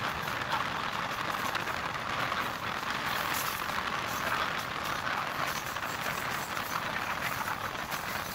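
Steady running noise of a MEMU electric train at speed, heard from an open door or window: a constant rush of air with wheel-on-rail clatter, even in level throughout.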